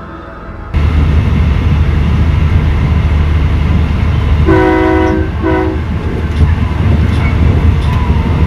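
Train running with a heavy low rumble. Its horn sounds twice, a longer blast and then a short one, about four and a half seconds in.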